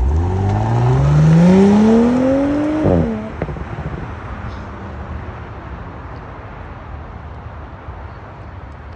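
Audi B9 S4's turbocharged 3.0-litre V6 through its stock exhaust, accelerating hard from a roll: the engine note climbs steadily for about three seconds, breaks off and drops suddenly, then fades to a low rumble as the car pulls away.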